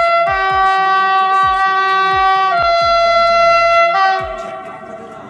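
Train's two-tone air horn blowing long notes, high then low then high again, fading out about four and a half seconds in, over a hip-hop beat with deep kick drums.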